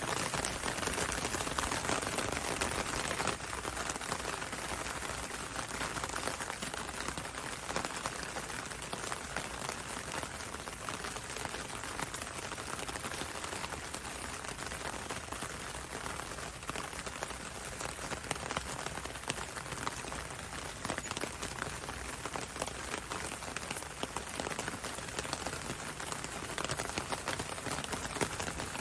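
Steady gentle rain falling on a window and a road, with many individual drops ticking over an even hiss.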